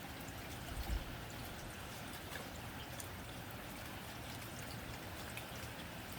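Rain falling steadily on a tin roof: an even hiss with scattered sharp drop ticks. A low thump about a second in.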